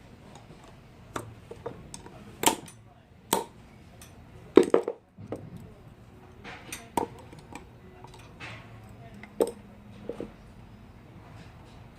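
Metal compressor parts and hand tools clinking and knocking at irregular intervals, about ten separate strikes with short ringing, the loudest cluster about four and a half seconds in, as a car air-conditioning compressor's clutch coil and pulley are fitted.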